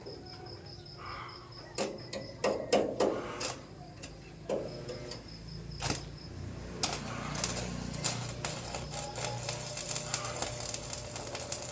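Hand tools working on metal: a few sharp knocks and clanks, then, from about seven seconds in, a long run of rapid clicking.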